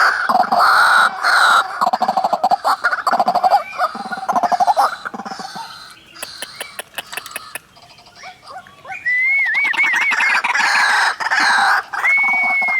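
White-breasted waterhens, a male and female, calling: fast, harsh, repeated croaking notes. The calls die down in the middle and then come back loud, with a wavering whistled trill and a held high note near the end.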